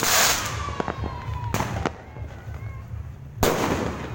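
Fireworks going off: a loud burst at the start and another about three and a half seconds in, with sharp single cracks between them and a faint falling whistle early on.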